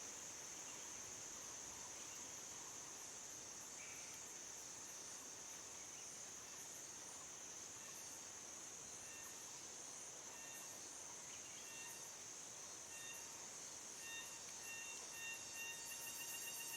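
Jungle ambience: a steady, high-pitched insect drone of crickets, faint. About halfway through, a short repeated chirping call joins in and comes more and more often toward the end.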